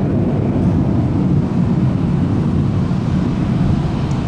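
Jet aircraft engines giving a steady, deep rumble.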